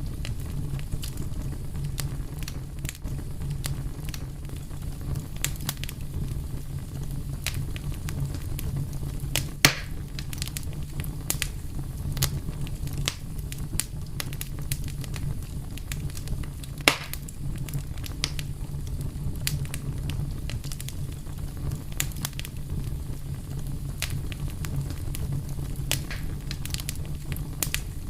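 Fire crackling steadily over a low rumble, with many small crackles and two louder pops, about ten seconds in and again about seventeen seconds in.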